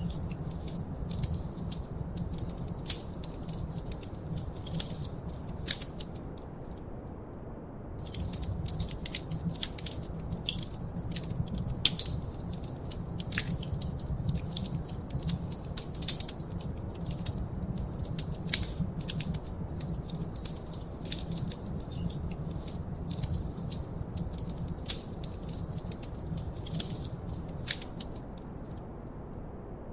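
Wood fire crackling in a fireplace: irregular sharp pops and snaps over a low steady rumble of the flames. The crackling drops out for about a second around seven seconds in and again near the end.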